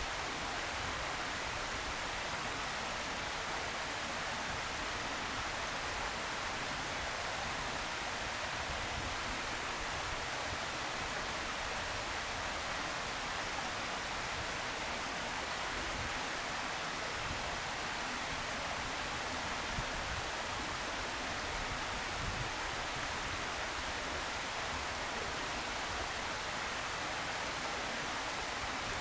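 Steady, even hiss with no distinct calls or knocks in it.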